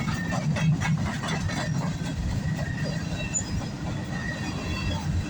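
Freight cars of a passing CSX mixed freight train rolling by as a steady low rumble, with the wheels clicking over rail joints in the first couple of seconds.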